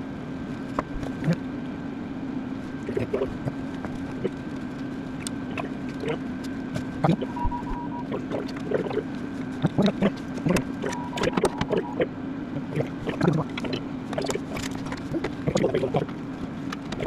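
Scattered clinks and knocks of hand tools on metal, the sound of mechanics working on a tractor's starter motor, over a steady machine-like hum.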